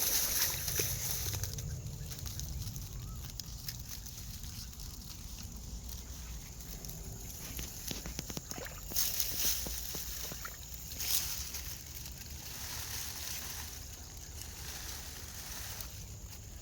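Water sloshing, with a few brief louder splashes near the start, about nine seconds in and about eleven seconds in.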